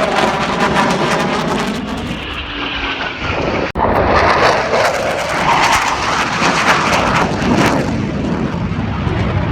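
Eurofighter Typhoon fighter jet flying past with its twin EJ200 turbofan engines at high power. The engine noise falls in pitch as it passes during the first couple of seconds. It cuts out for an instant about four seconds in, then continues loudly.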